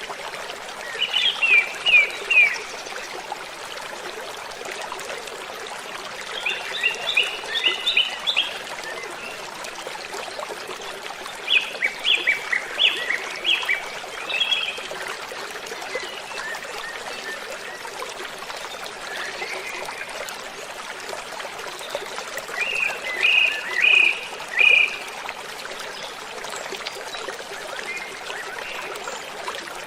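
Steady rushing of a waterfall, with a songbird singing four short phrases of rapid repeated high notes over it.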